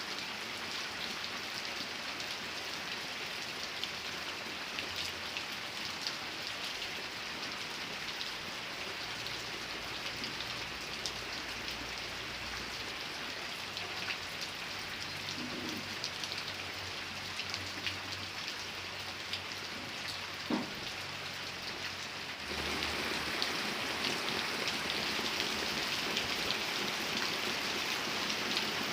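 Steady rain falling, with individual drops ticking on a surface. About three-quarters of the way through it suddenly becomes louder and fuller.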